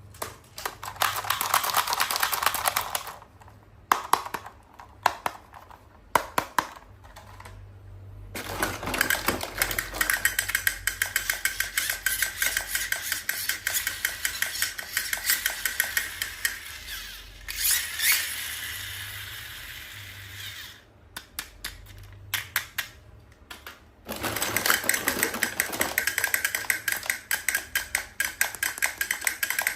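Rapid crackling and clicking of toy packaging being handled and opened. It comes in long dense runs, broken by pauses of a few scattered clicks.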